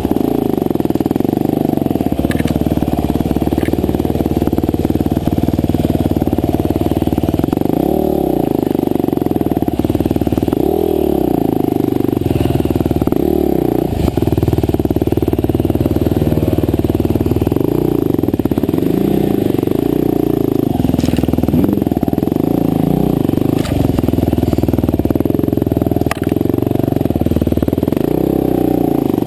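Husqvarna TE511 enduro dirt bike's single-cylinder four-stroke engine running under load on a trail, its revs rising and falling every couple of seconds, with a few sharp knocks scattered through.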